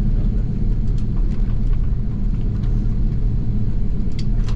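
Steady low rumble of an Airbus A330-300 jet heard inside the passenger cabin on the ground before takeoff, with a few faint clicks near the end.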